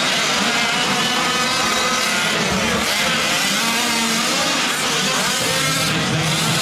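Several 1/5-scale gas RC trucks' small two-stroke engines running at once, their pitches rising and falling as they rev through the course.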